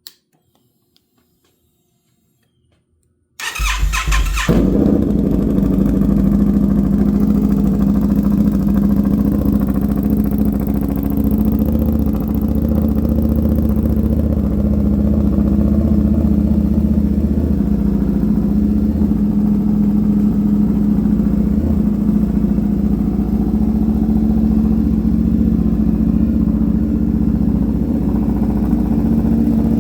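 Indian FTR 1200's V-twin, fitted with an aftermarket Toce exhaust and a Lloydz tune, cold-started for the first time: after about three seconds of quiet the starter cranks for about a second, then the engine catches and settles into a loud, steady idle.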